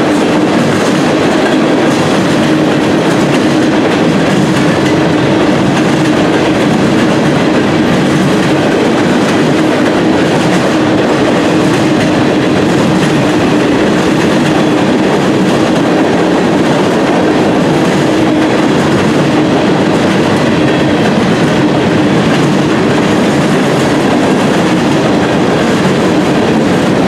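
Freight train tank cars and covered hopper cars rolling past at speed: a loud, steady rumble of steel wheels on rail, with a steady hum under it.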